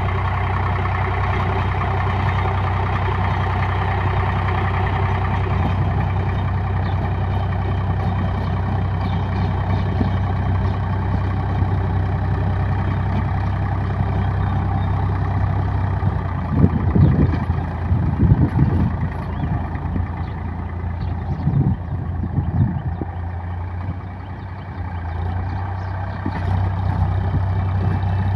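Tractor engine running steadily while driving a rotavator through soil, with a strong low hum. About two-thirds of the way through come a few louder, rougher low surges, then the sound eases briefly before picking up again.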